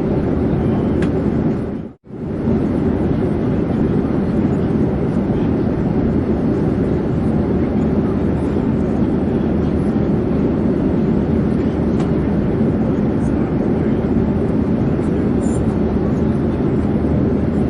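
Steady drone of an airplane in flight: a deep, even noise that does not change. About two seconds in it fades out to near silence and straight back in.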